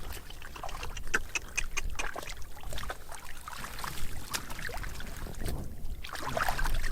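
Water splashing and sloshing with many scattered knocks and clicks, as of hands or feet working in shallow water.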